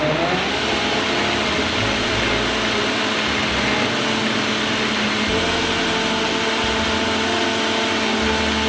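Blender motor running steadily at high speed, churning a thick smoothie of frozen vegetables and protein powder.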